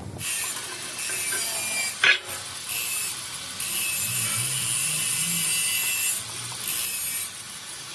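Metal being ground or sanded with a power tool, in several bursts with short pauses between.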